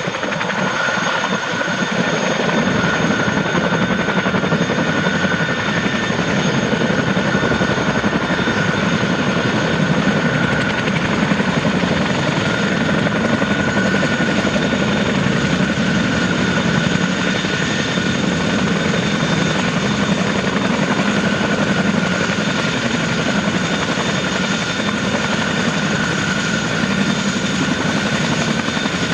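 Boeing CH-47D Chinook tandem-rotor helicopter's twin turboshaft engines and rotors running, a steady loud noise with a high turbine whine held throughout.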